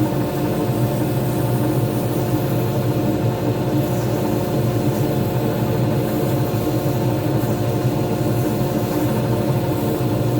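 Pen-turning lathe running at a steady speed: an even motor hum with several fixed tones.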